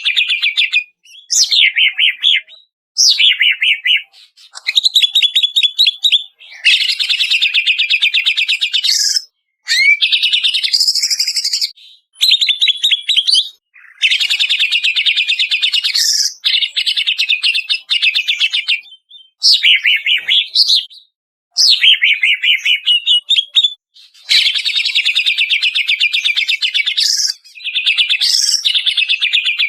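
Greater green leafbird (cucak ijo, Banyuwangi type) singing loud, fast trilled phrases with sweeping notes, each lasting a second or two, with short pauses in between.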